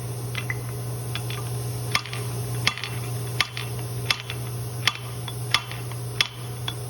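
Hammer blows on a paint sandmill's bearing as it is driven out of its housing: sharp metallic knocks about one every 0.7 seconds. The bearing is being removed because it is worn and noisy.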